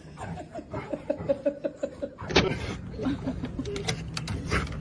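A person laughing in quick, repeated high-pitched bursts, with a sharp knock about two seconds in.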